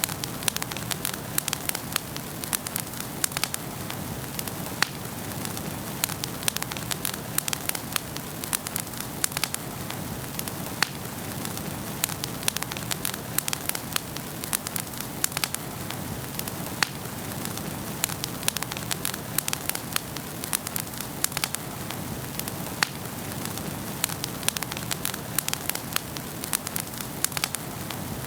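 Wood fire burning in a fireplace and crackling, with many sharp, irregular pops over a steady hiss.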